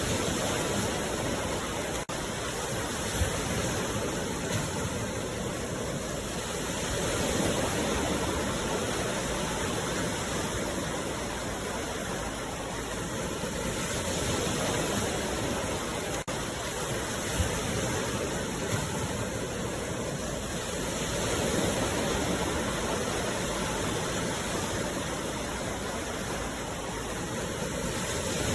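Sea waves washing ashore: a steady rush of water that swells and eases about every seven seconds.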